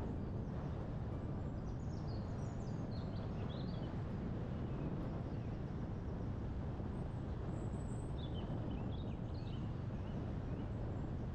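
Steady low wind noise, with a songbird singing two short bouts of quick high chirps: one about two seconds in and one about two-thirds of the way through.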